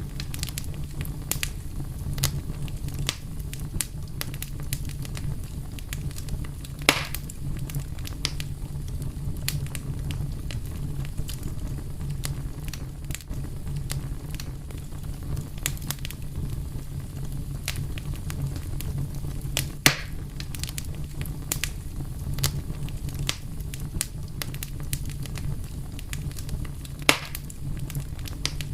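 Fire burning with a steady low rumble and frequent sharp crackles, with a few louder pops, about 7, 20 and 27 seconds in.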